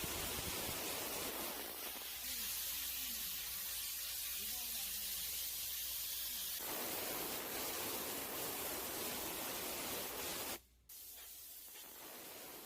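High-pressure industrial steam cleaner's jet hissing steadily as it sprays. From about two seconds in, the hiss turns higher and thinner for a few seconds. After a sudden cut about ten and a half seconds in, it carries on quieter.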